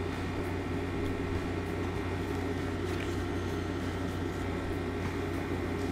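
Steady low mechanical hum of background machinery, with a few faint ticks of handling.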